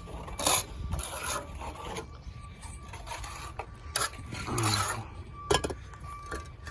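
Irregular scraping and rubbing noises in a few short bursts over a steady low rumble.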